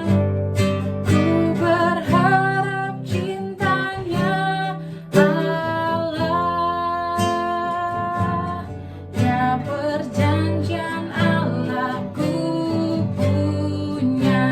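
Worship song: acoustic guitar strumming with a sung melody over it.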